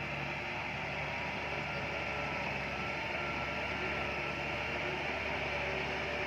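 Heavy earthmoving machinery running steadily, a continuous engine drone with a higher whine over it.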